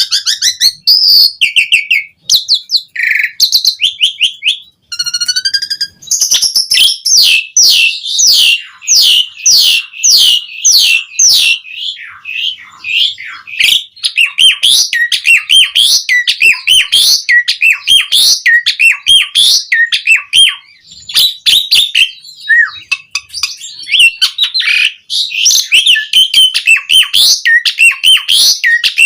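Javan pied starling (jalak suren) singing in full voice: a few separate whistled phrases, then from about six seconds in a fast, unbroken run of chirps, chatters and slurred whistles.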